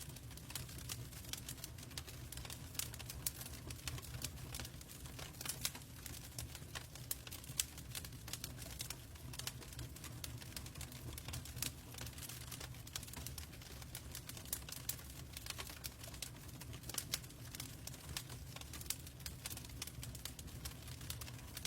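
Wood fire crackling in a fireplace: dense, irregular sharp pops and snaps over a low, steady rumble of burning logs.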